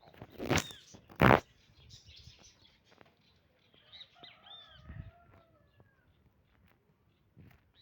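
Two short, loud noises close to the microphone about half a second and just over a second in, the second the louder, then faint bird chirps around four to five seconds in.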